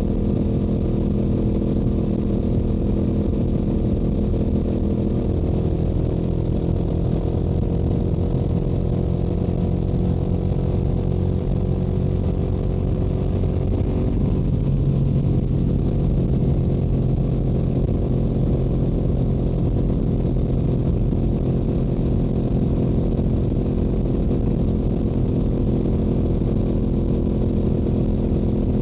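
Stock exhaust of a Yamaha YZF-R7's 689 cc parallel-twin engine running steadily at highway cruising speed. The engine note shifts about halfway through.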